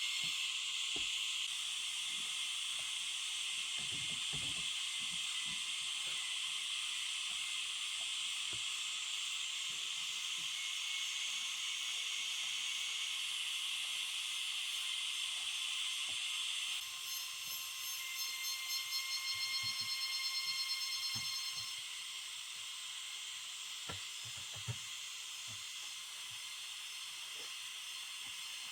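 Steady high-pitched chorus of forest insects, with thin shrill trills pulsing rapidly for a few seconds past the middle. Faint scattered knocks and handling sounds underneath.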